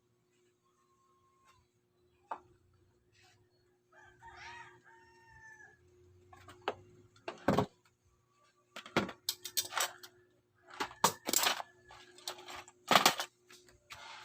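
A rooster crows once, about four seconds in. From about seven seconds on comes a run of loud, sharp knocks, several in quick clusters, which are the loudest sounds.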